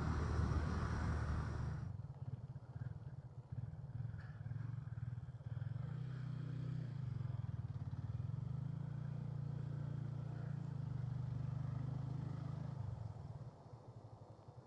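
Wind and road rush at speed that cuts off about two seconds in, followed by a motorcycle engine running slowly and steadily, its note rising a little in the middle and falling away near the end. The engine is the bike towing a broken-down KTM Duke 200, not the Duke itself.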